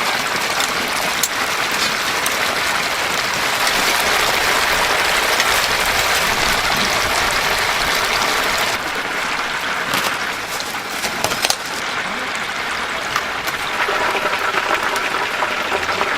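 Whole chickens deep-frying in a vat of hot oil: a loud, steady, crackling sizzle that thins a little about nine seconds in.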